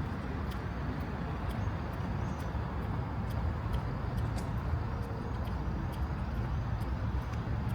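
City street ambience: a steady low rumble of road traffic, with faint footsteps ticking about twice a second.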